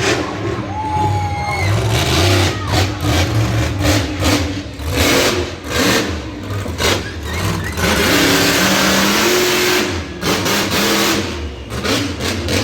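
Monster truck engine revving hard in repeated surges, with a longer stretch held near full throttle about eight seconds in.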